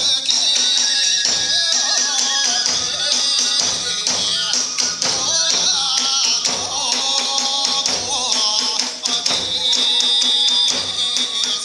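Iwami kagura festival music: a taiko drum beaten in a steady rhythm under ringing tesarigane hand cymbals, with a bamboo fue flute playing a sliding, wavering melody.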